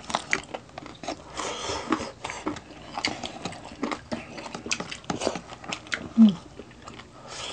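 Close-miked eating: chewing with many wet mouth clicks and lip smacks from people eating crispy pata and salmon sinigang by hand. There is a brief low hummed murmur about six seconds in.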